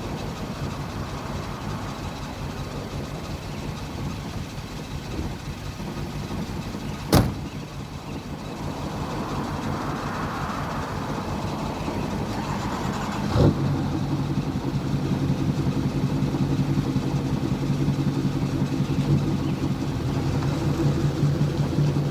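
Car engine idling, with a sharp knock about seven seconds in and another about halfway through, after which the engine note is louder and steadier.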